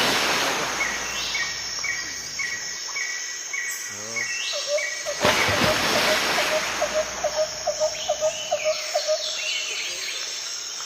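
Outdoor rural ambience: birds call in trains of short repeated notes, higher chirps in the first half and lower notes later on, over a steady hiss of insects. Brief surges of rushing noise come near the start and again about five seconds in.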